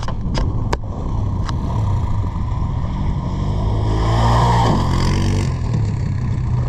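Off-road engine running, with a few sharp clicks in the first second and a half. About four seconds in it revs up louder, then the pitch slides down and it drops back.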